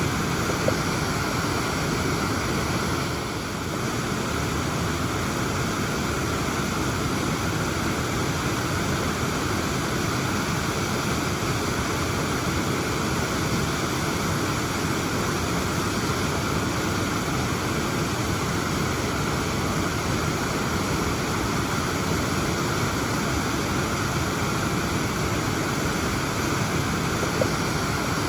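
Waterfall: a steady, full rush of falling water, heaviest in the low and middle range.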